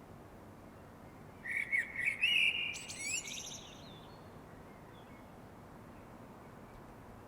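A songbird sings one short, varied phrase of high notes, starting about a second and a half in and lasting about two seconds, over a steady faint background hiss.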